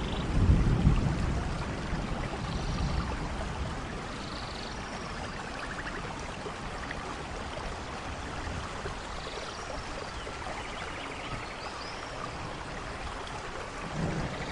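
Steady rainforest rain falling, with a low rumble loudest about half a second in that fades over the next two seconds, and scattered short high chirps throughout.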